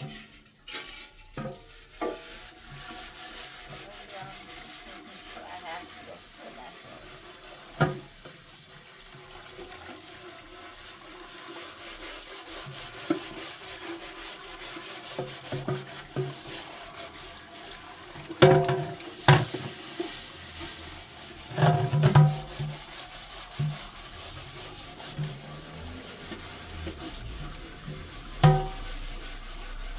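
Cooking sounds: a steady hiss with scraping and stirring in a pot or pan, and a few sharp knocks of a utensil against it, the loudest a little past halfway and near the end.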